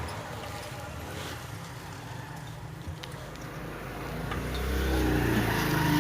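A motor vehicle's engine running, getting louder over the last two seconds or so, over a steady low hum.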